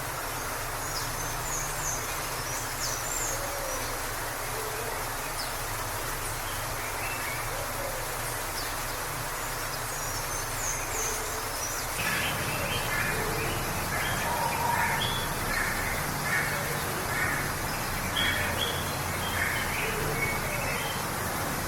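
Waterfall rushing steadily, with birds chirping over it; from about halfway through, a bird sings a run of short repeated notes.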